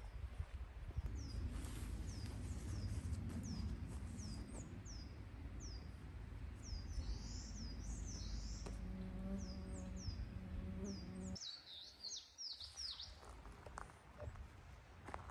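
A bird calling over and over: short, high, downward-sliding chirps about twice a second, bunching into a quick flurry near the end. Underneath is a low rumble that cuts off abruptly about eleven seconds in.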